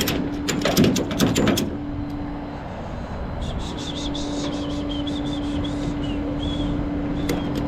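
Flatbed tow truck running with a steady low hum, with rapid mechanical clicking for the first second and a half, then light high chirps and ticks over the hum.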